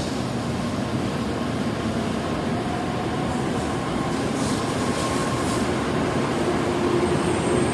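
N700S Shinkansen train pulling out of the station: a steady rush of running and wheel noise with a faint electric whine.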